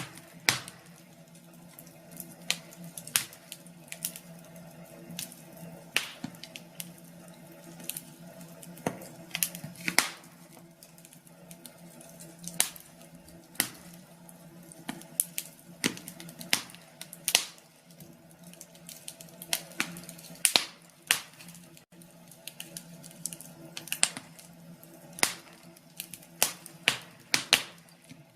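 Wood fire crackling, with irregular sharp pops and snaps of varying loudness over a faint steady hum.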